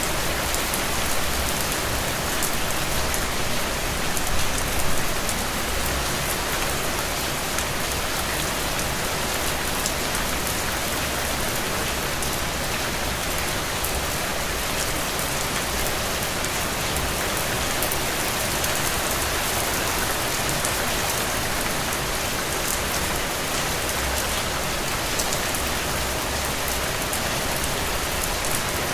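Heavy, steady rain falling on the ground, a dense even hiss full of fine drop patter.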